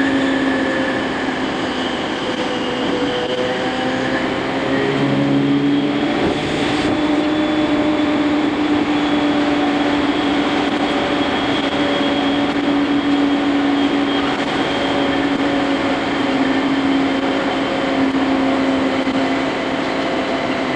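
JR East E231 series commuter train running, heard from inside a motor car: a steady rumble of wheels on rail with a whine of several held tones.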